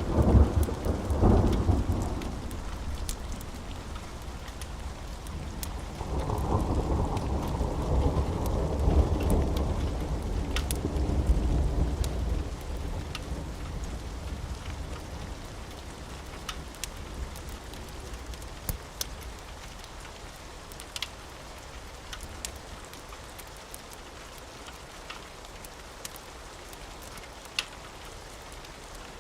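Steady rain with thunder: a deep rumble in the first couple of seconds, then a longer roll from about six seconds in that dies away by about twelve seconds. Scattered small sharp crackles from a fireplace run through the rain.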